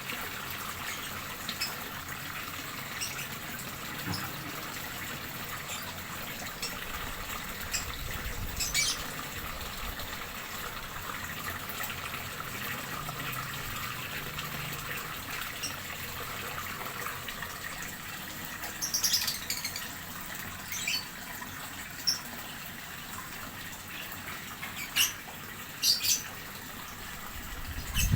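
Steady running water, with a few short bird chirps scattered through.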